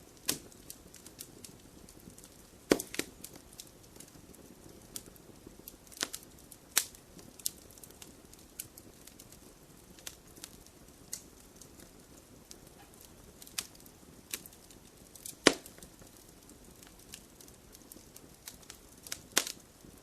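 Wood fire crackling in a fireplace: scattered sharp pops and snaps over a soft low hiss of flame, with a few louder pops, the loudest a little past halfway.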